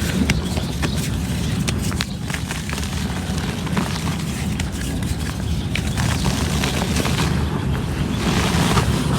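Reused cement crumbling and crunching, with many small sharp crackles over a steady low rumble.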